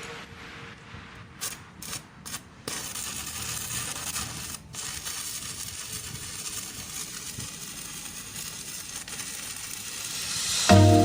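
A few sharp clicks, then a steady crackling hiss from an electric welding arc.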